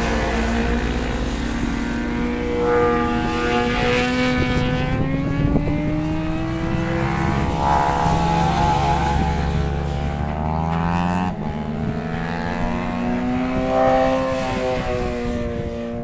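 Track-day motorcycle engines running on the circuit, their notes rising and falling in pitch as the bikes accelerate and shift, with more than one engine heard at once. A steady low drone under them cuts off suddenly about two-thirds of the way through, and wind buffets the microphone.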